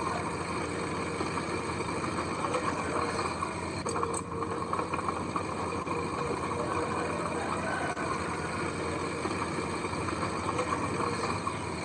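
Heavy diesel earthmoving machinery running steadily, a continuous engine drone with no sharp events.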